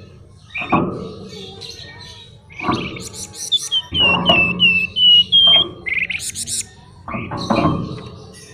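Flamboyan songbird singing a varied, busy song: rapid high trills and a run of about six clear, slurred whistled notes in the middle, mixed with harsher, lower rasping notes.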